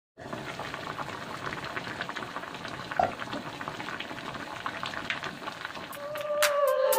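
Pot of fish in vinegar broth (paksiw) bubbling and crackling steadily over a gas flame, with a brief clink about three seconds in. Music comes in near the end.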